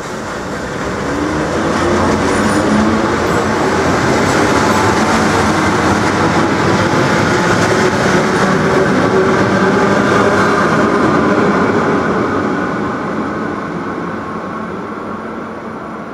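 A train passing by on the track: the noise of its wheels on the rails builds over the first two seconds, holds steady, and fades away near the end.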